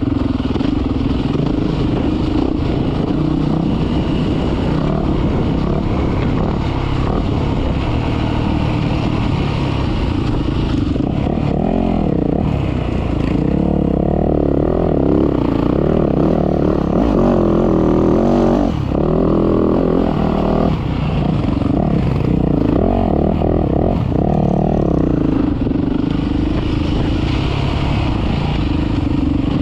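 Dirt bike engine running under way, holding a steady pitch at first, then revving up and down repeatedly through the middle before settling back to a steady note near the end.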